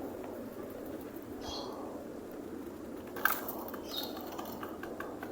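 A flock of pigeons feeding on scattered bird seed, with a sharp clack or wing flap about three seconds in and two short high bird chirps.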